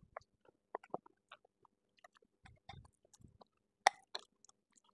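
Quiet chewing and mouth sounds of people eating at a table, with scattered small clicks. There are two sharper clicks a little under four seconds in.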